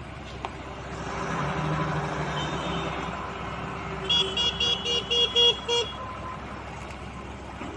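Vehicle horn sounding a quick string of about seven short toots, over the steady running of an engine.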